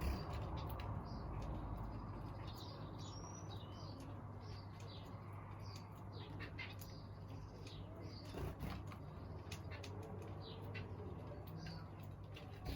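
Small aviary birds chirping and tweeting in many short, high calls, with flutters of wings and light clicks among them. A steady low hum runs underneath.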